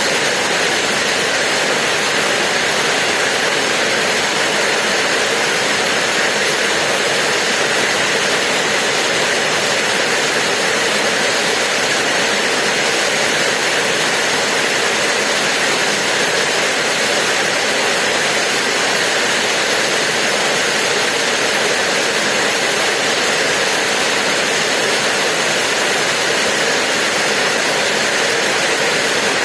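Steady rain: an even rushing hiss with no single drops standing out.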